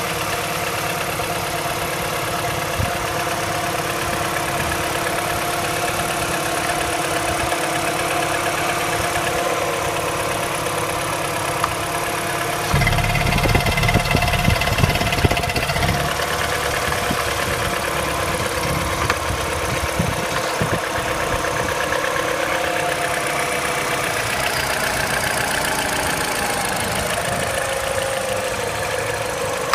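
MINI N12 1.6-litre four-cylinder engine idling from a cold start, running steadily with a ticking, knock-like edge. The owner is unsure whether this is normal for the N12. About a third of the way in, the sound turns louder and rougher for a few seconds, then settles back to a steady idle.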